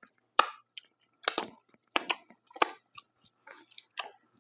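A person chewing food close to the microphone, with a run of sharp crunches, four loud ones well under a second apart followed by softer chews.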